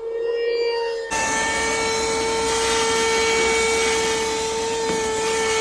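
Cordless portable car vacuum cleaner running: a steady high motor whine, joined about a second in by a sudden, steady rush of air as the suction noise jumps up.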